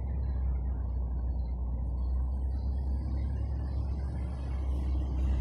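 A motor vehicle's engine running with a steady low rumble, with a faint hiss of traffic joining about halfway through.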